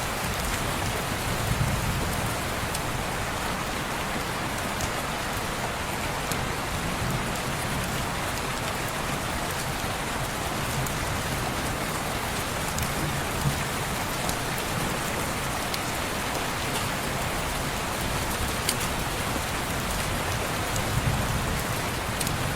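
Steady rain on a window glass: an even hiss with scattered light ticks, and brief low swells about two seconds in and near the end.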